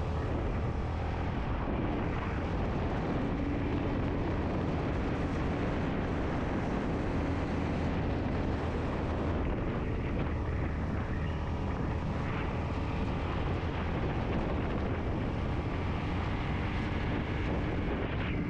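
Yamaha MT-15's single-cylinder engine running at a steady cruise under heavy wind and road noise, heard from the moving motorcycle.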